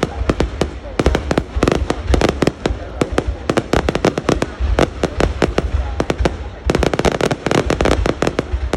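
Fireworks display going off in a continuous barrage of sharp bangs and cracks, several a second, with a brief dip just before the last couple of seconds.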